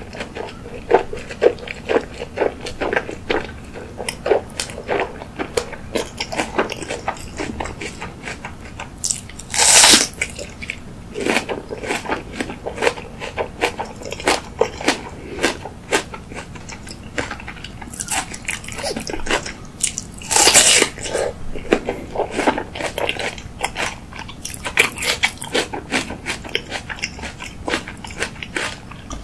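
Close-miked chewing of a mouthful of food: a steady stream of wet mouth clicks and smacks, with two louder hissing bursts, about ten and twenty seconds in.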